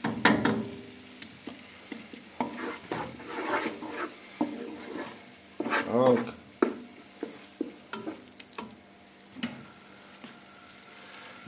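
Wooden spatula stirring and scraping a thick tomato paste, paprika, onion and garlic base as it fries in oil in a nonstick pot, with a soft sizzle and irregular scrapes against the pot. The tomato paste is being briefly fried to take off its sourness.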